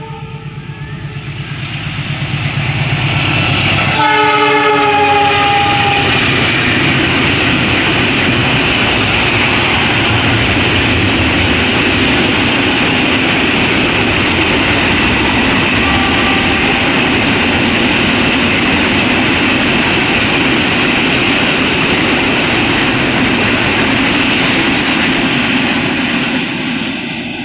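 A train sounds its horn twice as it approaches, a short blast ending just after the start and another about four seconds in, then runs through at speed. The steel wheels on the rails make a loud, steady rush for about twenty seconds, fading near the end.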